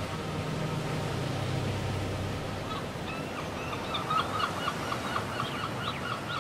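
Surf washing steadily. A little under halfway in, a bird starts a rapid run of short honking calls, about five a second, over the surf.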